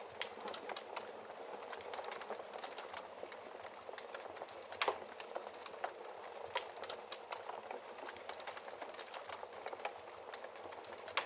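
Wood fire burning in a fireplace, a steady hiss with frequent irregular crackles and pops, one louder pop about halfway through.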